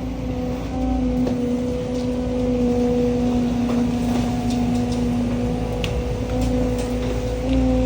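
John Deere skid steer's diesel engine running steadily under work, with a steady hum that shifts slightly in pitch a couple of times and a few light ticks and knocks.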